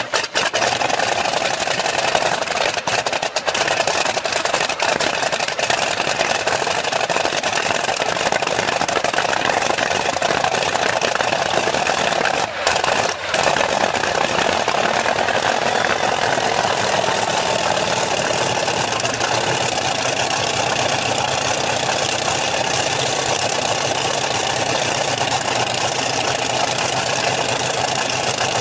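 Russian helicopter's engine starting and running up, a loud steady engine noise with a brief dip about twelve seconds in.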